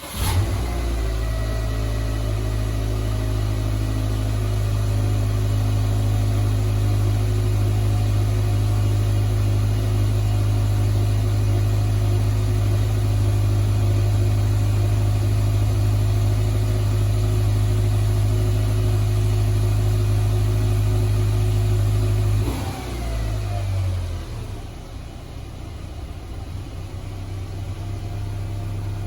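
Subaru Legacy GT's turbocharged flat-four catching on a cold start and settling into a fast, steady cold idle. About three quarters of the way through, the idle drops in pitch and gets quieter, settling to a lower steady idle.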